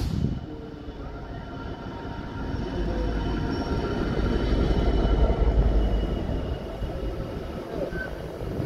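GB Railfreight Class 66 diesel locomotive hauling an intermodal container freight train passes close below. Its deep engine rumble swells to its loudest about halfway through as the locomotive goes underneath, then eases into the steady running noise of the container wagons.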